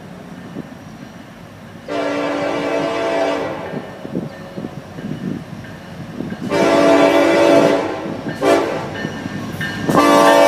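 Florida East Coast Railway freight locomotive's air horn sounding the grade-crossing signal, long, long, short, then the start of a final long blast, over the low rumble of the approaching train.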